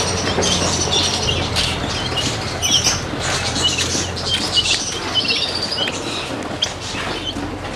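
Many birds chirping and squawking together, a dense run of short, overlapping calls.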